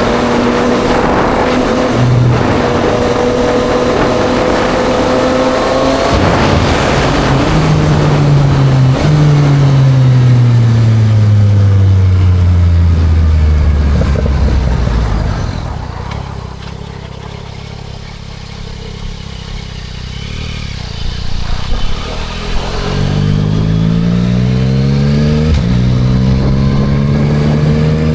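Yamaha MT-09 SP's three-cylinder engine through a Spark full exhaust, heard from the rider's seat over wind and road noise. The revs fall steadily as the bike slows on engine braking, then run lower and quieter for a few seconds. Near the end it pulls away again, the revs climbing in short steps broken by quick upshifts.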